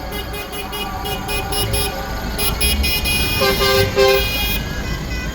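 Vehicle horns tooting in quick runs of short beeps, then three longer, lower honks about three and a half seconds in, over the low rumble of tractor engines.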